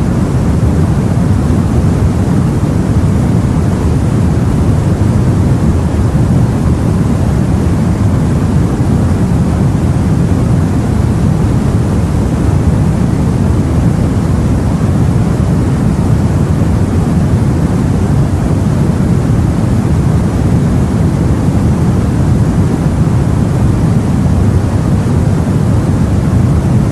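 Steady, even rumble of sea and wind, deepest in the low end, with no separate wave breaks or other events.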